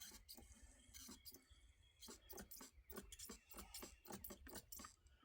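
Near silence with faint, irregular clicks and light taps: handling noise from the open chainsaw fuel tank during refuelling.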